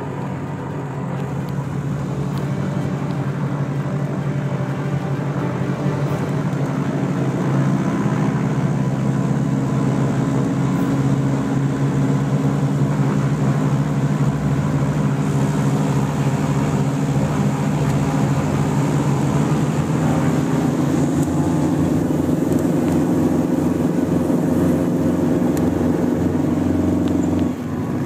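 Light twin-engine piston aircraft's engines running steadily. They grow louder over the first several seconds, then hold a constant drone, with a brief drop in level near the end.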